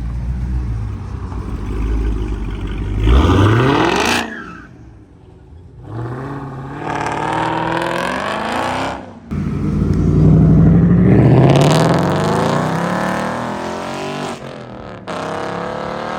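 Car engines revving and accelerating hard in several separate pulls, the pitch climbing and dropping through the revs, each pull broken off suddenly.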